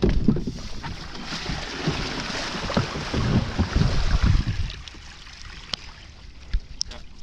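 Gusty wind buffeting the microphone over splashing water, easing off about five seconds in, followed by a few light clicks.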